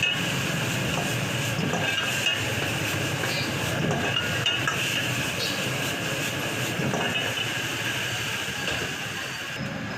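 Steady roar of a street-stall wok burner with a metal ladle clinking and scraping in the wok as food is stir-fried.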